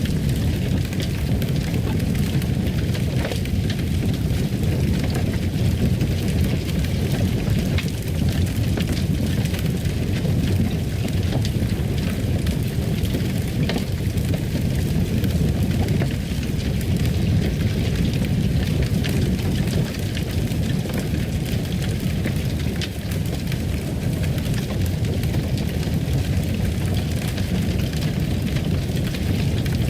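Wood fire burning in a fireplace: a steady low rumble with many small crackles and pops.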